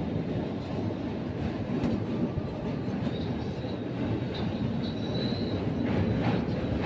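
Moving passenger train heard from inside the coach: a steady rumble of wheels on the rails, with a faint high squeal about three seconds in that fades out a couple of seconds later.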